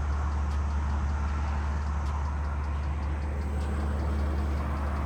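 Car engine running with a steady low drone and road noise, heard from inside the car.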